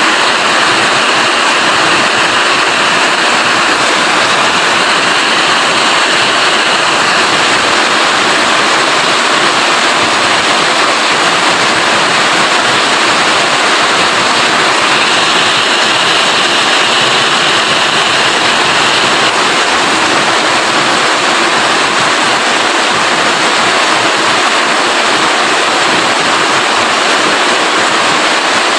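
Rain falling steadily and loudly, an even, unbroken rush of water noise.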